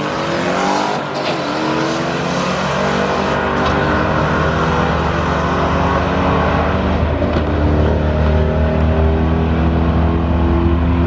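Twin-turbo Mustang engine at full throttle during a drag-strip pass, its pitch rising slowly and steadily under hard acceleration.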